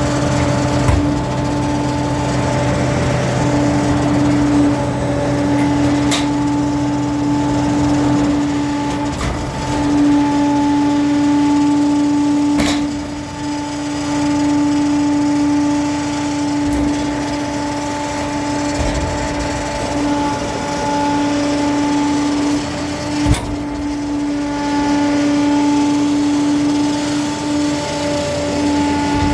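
Garbage truck running: a steady, even-pitched hum throughout, a deeper hum under it that stops about eight seconds in, and a few sharp knocks or clanks, the loudest about 23 seconds in.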